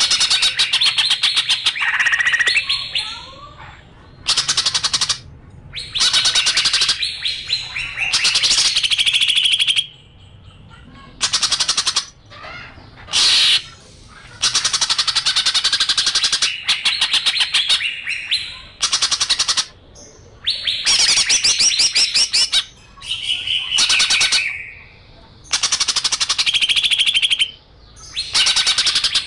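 Songbird song of the kind used as a training 'master' for competition birds: repeated bursts of very fast rattling trills, each one to two seconds long, alternating with shorter whistled and warbled phrases.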